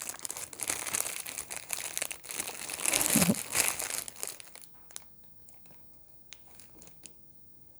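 Product packaging being handled, rustling and crinkling for the first four and a half seconds, then a few light clicks.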